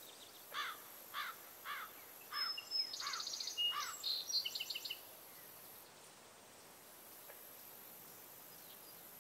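Birdsong: a string of short falling chirps about every half second, joined by quick higher trills, over faint outdoor ambience; the birds stop about halfway through.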